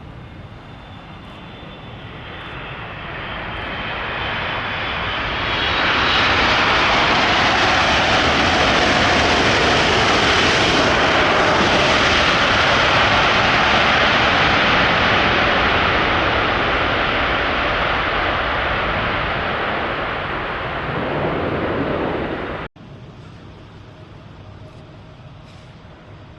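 Jet airliner's engines swelling to a loud, steady rush with a faint whine as the plane passes close by, then cutting off suddenly near the end, leaving a quieter background rumble.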